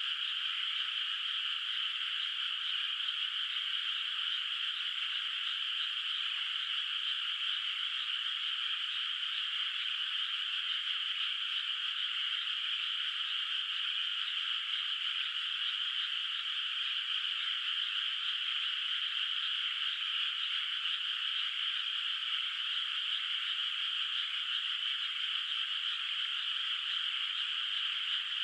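A dense chorus of many frogs calling together in a flooded rice paddy, blending into one continuous, even, high-pitched trill with no single call standing out.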